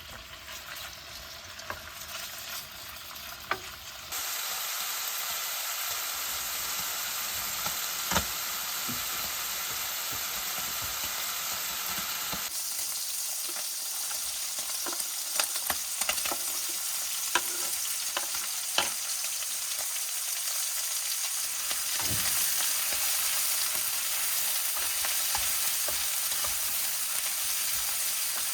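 Food sizzling as it fries over heat, a steady hiss that gets louder about four seconds in, with scattered sharp pops and clicks.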